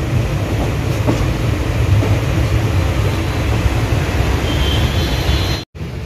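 Indian passenger train running, heard from an open door of the moving coach: a steady low rumble of wheels on the rails. It breaks off for an instant near the end, then resumes.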